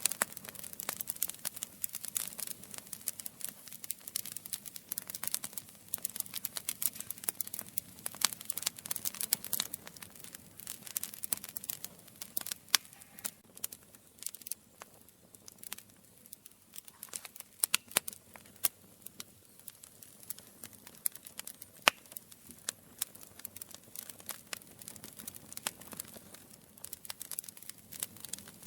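Campfire crackling: a steady run of sharp pops and snaps from burning wood, over a faint hiss, with a few louder pops now and then.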